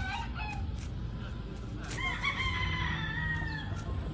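Gamefowl rooster crowing: a few short calls near the start, then one long crow beginning about two seconds in.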